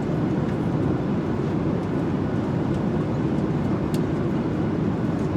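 Steady low rumble of jet airliner cabin noise in flight, with a faint tick about four seconds in.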